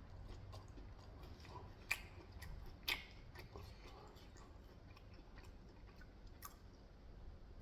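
A person chewing food quietly, with a scatter of small clicks; the sharpest clicks come about two and three seconds in.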